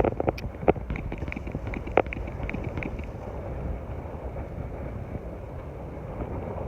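Strong gusty wind buffeting the microphone with a steady low rumble. A few sharp knocks and a run of light clicks come in the first two to three seconds.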